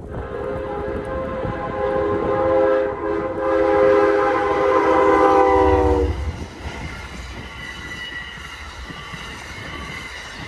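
Amtrak locomotive horn sounding a loud chord that sags slightly in pitch as the train passes and cuts off about six seconds in, then the rushing rumble of the train going by with faint clickety-clack of wheels on rail joints.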